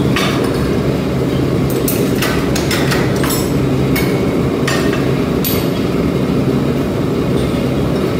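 Forging-shop machinery running with a steady, loud rumble, broken by irregular sharp metal clanks and knocks, several within a few seconds.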